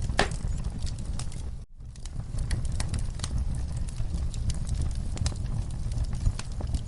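Wood fire burning in a fireplace: a steady low rumble of flames with frequent sharp crackles and pops. The sound cuts out for a split second about a second and a half in.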